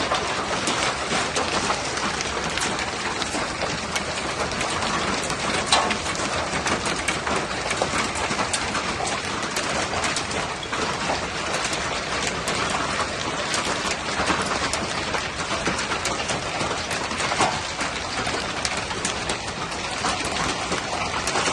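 Hailstorm: hailstones pelting down in a dense, steady clatter of countless small impacts, with a couple of sharper, louder hits, one about six seconds in and another later on.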